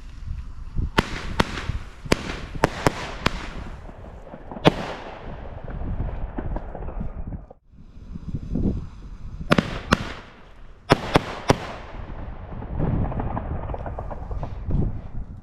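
Consumer fireworks going off: a run of sharp cracking bangs over a rumble of launches and bursts. They come in two bouts, with a brief lull about seven and a half seconds in.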